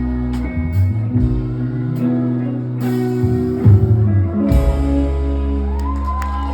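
Live band music without vocals: electric guitar chords over sustained bass notes, changing every second or so and then settling into a held chord about four and a half seconds in.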